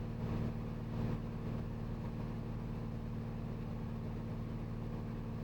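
Steady in-cabin drone of a Cirrus SR22T's turbocharged six-cylinder engine and propeller, running at reduced power as the plane slows on approach.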